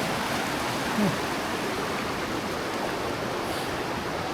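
Steady rush of a fast-flowing mountain river below a waterfall. About a second in there is a short falling voice sound, like a grunt.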